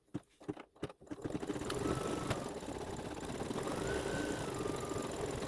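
Embroidery machine stitching a design: a few separate clicks, then about a second in the machine starts up and runs at a steady, rapid stitching rhythm.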